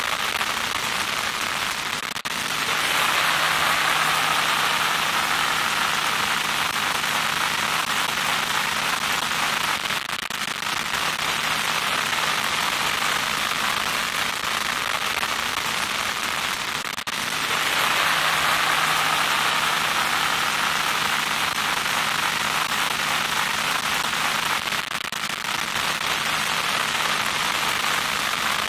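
Loud static noise: a steady, crackling hiss that spreads across the whole range. It dips briefly every seven to eight seconds, and its brighter, hissier stretches carry a faint low hum.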